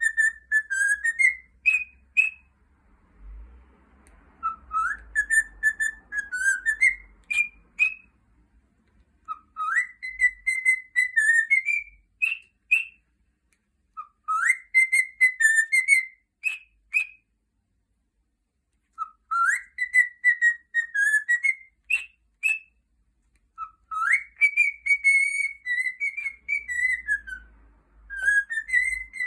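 A pet cockatiel whistling the same short warbling phrase about six times with pauses between. Each phrase rises and falls and ends in two short, higher 'pi-pi' notes.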